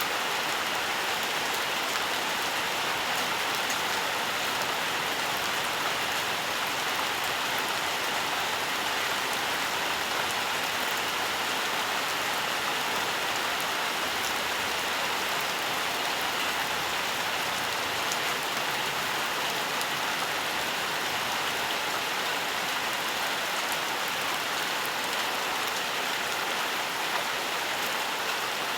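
Steady rainfall, an even hiss of drops with faint patter, with no change in strength and no thunder.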